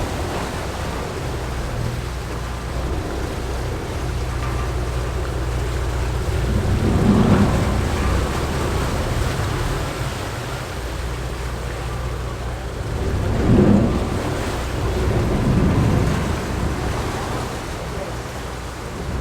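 A boat's engine drones low and steady under wind rushing over the microphone, with gusts swelling louder several times.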